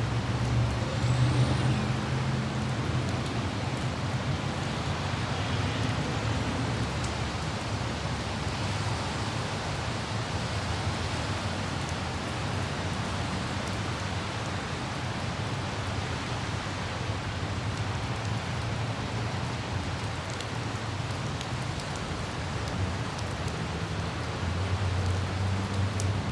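City traffic in light rain: a steady hiss of rain and wet road with the low rumble of passing vehicles, heavier at the start and again near the end.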